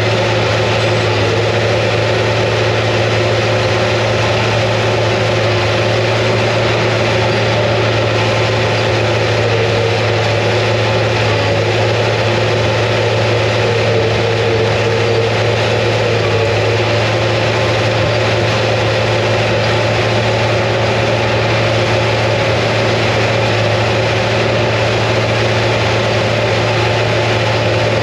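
International TD15C crawler dozer's DT466 diesel engine running steadily at an even speed.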